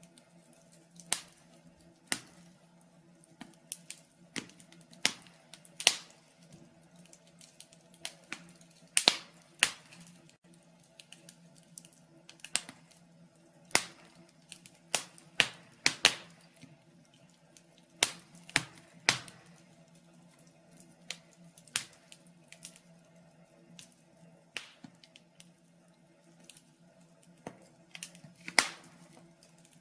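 Wood fire in a fireplace crackling: sharp, irregular pops and snaps, about one a second, over a faint steady low hum.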